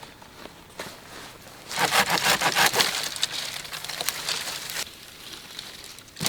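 Dry wood snapping and crackling in a dense run of sharp cracks that lasts about three seconds, then a shorter burst near the end.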